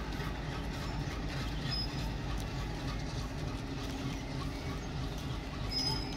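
Overhead-line wiring work train moving away along the track, running with a steady low drone.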